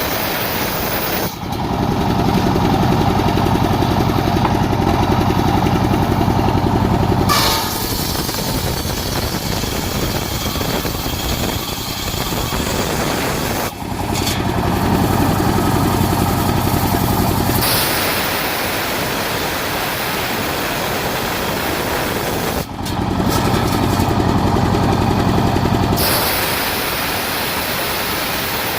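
Engine-driven circular sawmill running while sawing a coconut palm trunk, getting louder and heavier three times for a few seconds each as the blade works through the wood.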